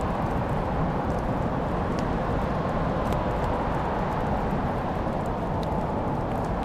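Fireplace fire burning with a steady low rumble, broken by a few sparse, faint crackles.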